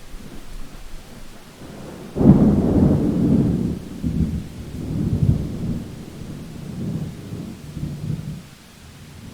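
Thunder: a sudden clap about two seconds in, then a low rolling rumble that swells again a few times and dies away near the end, over a steady hiss.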